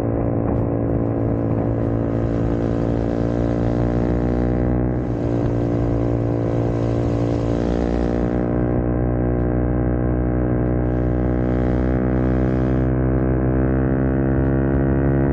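Small Honda single-cylinder four-stroke motorcycle engine running under way, a steady drone with a brief dip in pitch about five seconds in and then a slow rise in pitch.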